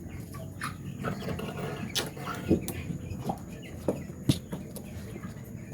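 A flock of chickens clucking in a poultry house, with a few short sharp knocks in the middle.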